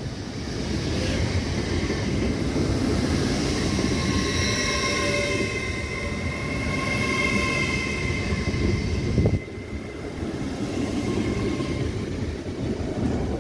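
LNER Class 801 Azuma train pulling into the platform: a steady rumble with high squealing tones from the wheels and brakes. The sound drops off sharply about nine seconds in.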